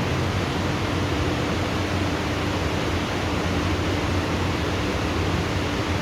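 Heavy rain falling in a steady, even hiss; no thunder is heard.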